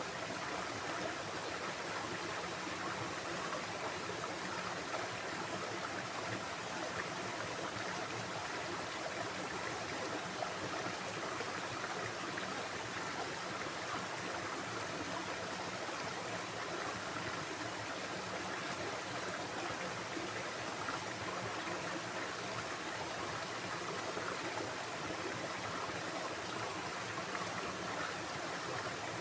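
A stream of running water flowing steadily, an even, unbroken rush with no distinct events.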